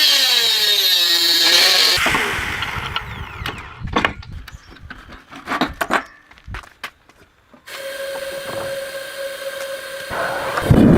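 A power tool running with a shifting pitch, then shutting off and dying away about two seconds in. A few knocks follow, then a steadier motor hum starts and a louder tool noise comes in near the end.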